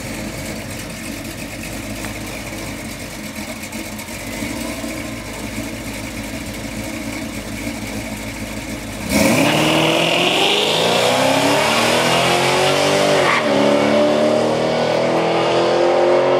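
A 1979 Camaro's 350 small-block V8 running at the drag strip starting line, then launching at full throttle about nine seconds in. The engine pitch climbs steadily, drops at a gear shift about four seconds later, and climbs again as the car pulls away down the strip.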